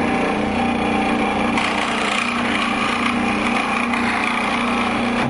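Scroll saw running steadily, its reciprocating blade cutting wood with a constant buzz. The cutting noise turns brighter about a second and a half in.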